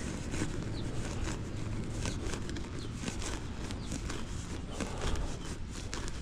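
Digging into grass and soil with a hand digger: irregular crunching and scraping clicks, over a steady low rumble.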